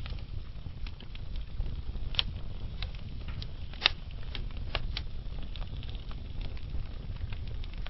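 Logs burning slowly in a fireplace: a steady low rumble of the flames with scattered sharp crackles and pops, the loudest pop a little before halfway.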